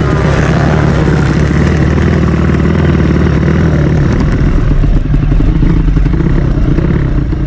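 Drag-racing motorcycle engines running loud and steady at an unchanging pitch, then cutting off abruptly.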